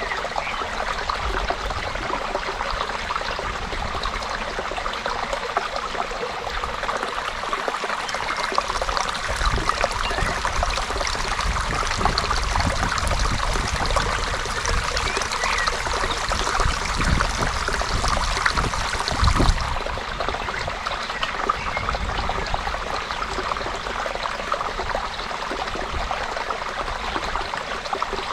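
A creek's water trickling and babbling steadily over stones. A low rumble rises and falls beneath it, with a dull low bump a little past two-thirds through.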